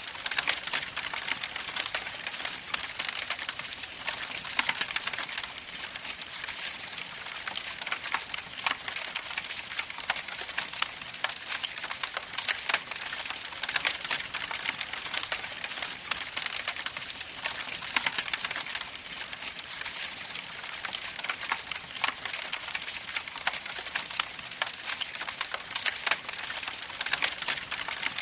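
Wood fire burning, crackling steadily: a soft hiss with frequent sharp, irregular pops and snaps.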